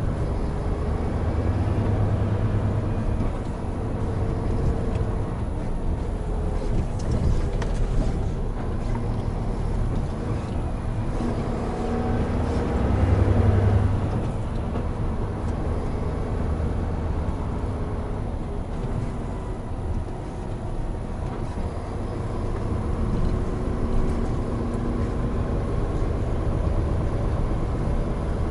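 Hino Profia heavy truck on the move: a steady diesel engine rumble mixed with road and tyre noise, its pitch rising and falling slowly with speed. It swells loudest about halfway through.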